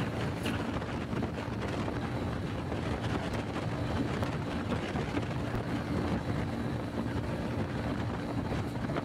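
Honda Pop 100's small single-cylinder four-stroke engine running steadily at cruising speed, heard from the rider's seat with wind rushing over the microphone.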